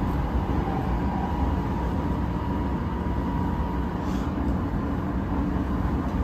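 Odakyu 3000 series electric train, fitted with totally enclosed traction motors, running at speed, heard from inside the passenger car: a steady low rumble of wheels on rail with a constant hum, and a faint higher tone that fades out about halfway through.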